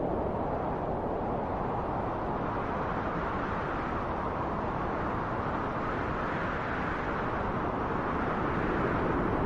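Steady rushing wind, a deep, even noise with slow, gentle swells and no gusts or impacts.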